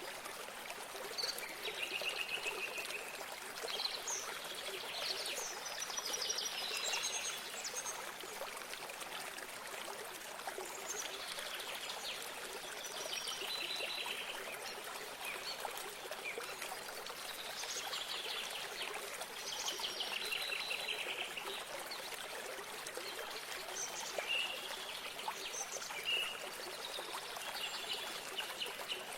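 Small songbirds chirping and singing rapid trills, call after call, over the steady trickle of running water.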